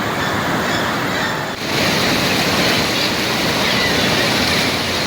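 Steady rush of water pouring over the salmon hatchery dam. About a second and a half in it dips briefly, then returns louder and brighter.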